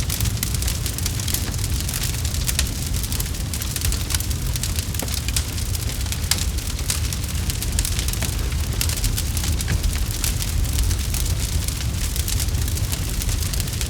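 Campfire burning with many small, irregular crackles and pops over a steady low rumble of flames.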